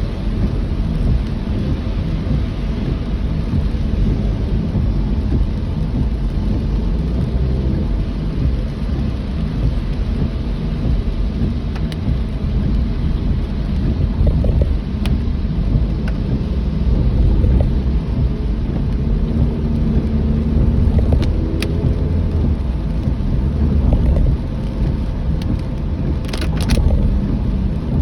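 Steady rain over the constant low rumble of a car on the move through the downpour, with a few sharp ticks near the end.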